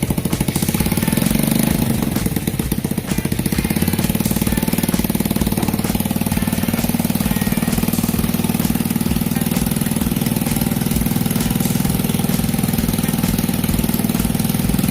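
Small motorcycle engine running steadily at constant speed, with a rapid even pulsing beat.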